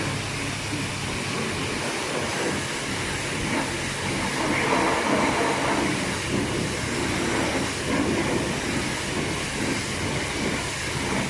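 Water spray and washing hitting the car's body, heard muffled from inside the cabin as a shifting hiss and splash, over a steady low hum.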